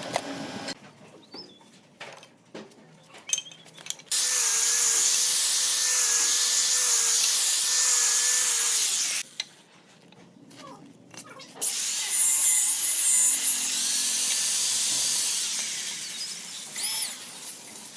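A handheld power tool working wood, running in two spells of about five and four seconds with a pause between, after a few light knocks.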